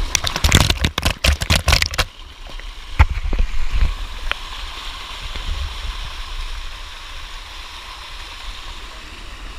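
Water of the Bua Tong 'sticky' waterfall rushing steadily down its cascade. A quick run of sharp knocks and splashes in the first two seconds and another knock about three seconds in stand out over it.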